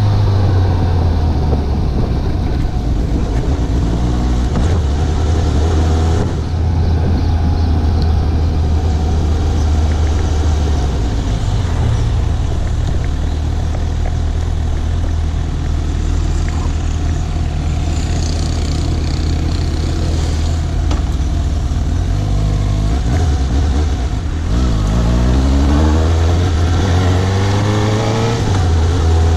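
Suzuki GSX750 motorcycle engine running on the road at steady revs for most of the time. Near the end it accelerates with a rising pitch, then the revs drop as it shifts up.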